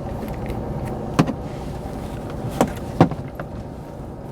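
Car engine idling, heard from inside the cabin, with three short sharp clicks: one about a second in and two close together past the halfway point.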